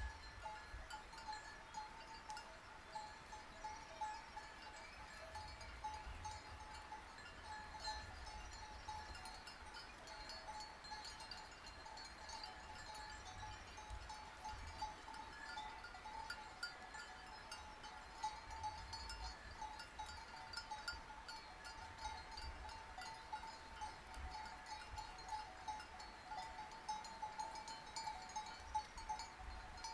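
Sheep bells ringing on and off, with clear ringing tones that come and go without pause.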